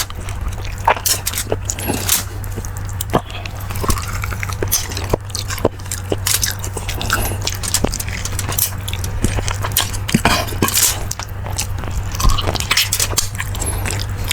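A person eating close to the microphone: irregular chewing, smacking and small clicks, over a steady low hum.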